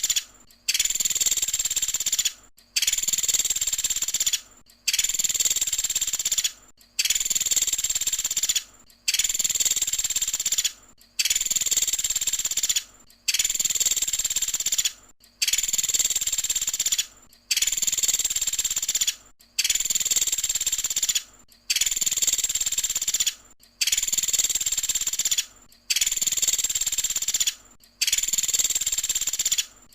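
Looped recording of a pelatuk sampit woodpecker's high, rasping 'tembakan' call, each call lasting about two seconds and repeated evenly with brief gaps, some fourteen times over.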